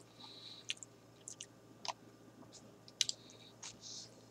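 Faint eating sounds close to the microphone: scattered wet mouth clicks and soft crunches from chewing a burger, with a sharper click and a bite about three seconds in.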